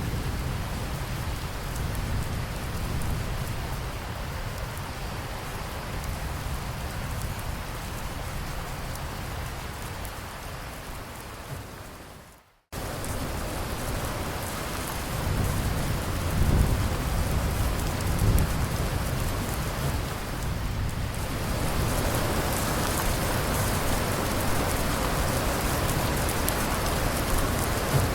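Steady rain with low rolling thunder rumbling beneath it. About twelve seconds in, the sound fades away to silence and then cuts abruptly back in. The rain grows heavier and louder over the last third.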